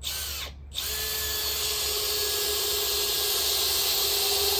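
Makita XPH14 18V brushless drill-driver in speed 1 driving a 3-inch Phillips screw into a wood 4x4. The motor runs in a short burst, pauses, then runs steadily as the screw goes in, ending flush.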